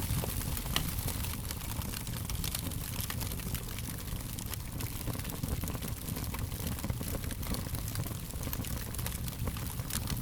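Wood fire burning: a steady low rumble of flames with many small, irregular crackles and pops throughout.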